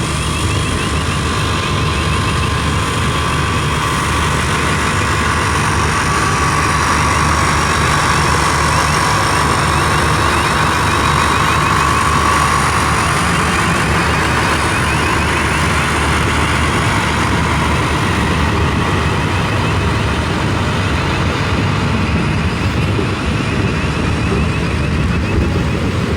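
Passenger train running along the track, heard from inside the carriage: a steady rumble and rushing noise, with a faint whine that swells in the middle.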